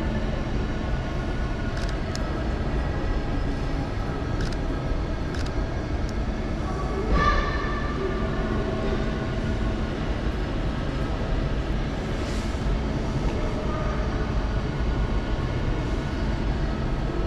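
Railway station ambience with a train's steady low rumble. A few faint clicks come early, and a brief higher-pitched sound about seven seconds in is the loudest moment.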